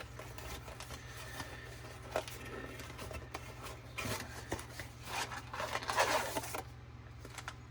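Cardboard trading-card blaster box being worked open by hand: cardboard rubbing and scraping, with louder scrapes about two, four and six seconds in.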